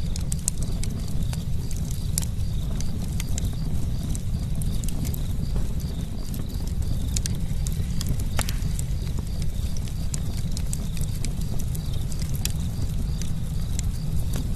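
Campfire burning and crackling: frequent irregular sharp pops and snaps over a steady low rumble, with one louder snap about eight seconds in.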